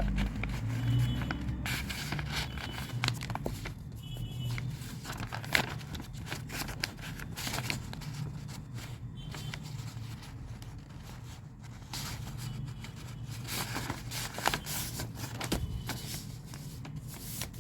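A sheet of coloured paper rustling and scraping as it is handled and folded, with frequent short crinkles over a faint low hum.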